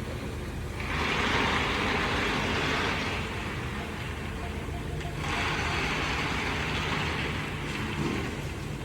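A car engine running steadily, overlaid twice by a few seconds of steady hissing.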